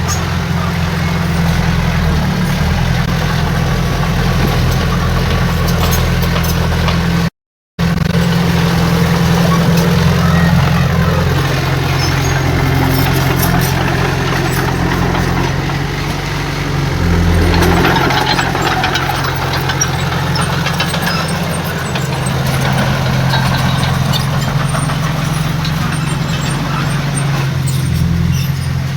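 Heavy diesel earthmoving machinery running with a steady low engine drone. The sound drops out completely for a moment about seven seconds in, and a louder, rougher rush of noise comes in around seventeen seconds.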